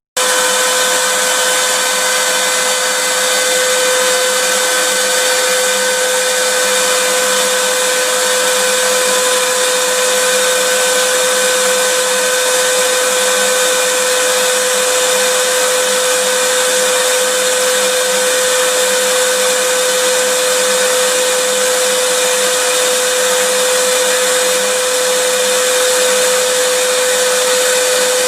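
Vacuum cleaner running steadily: a continuous whooshing hiss with a constant motor whine. There is a split-second dropout at the very start.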